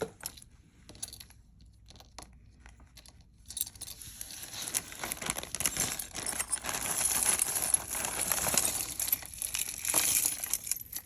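A few light clicks, then about seven seconds of steady crinkling and crackling of plastic packaging being handled, with small clinks of jewelry.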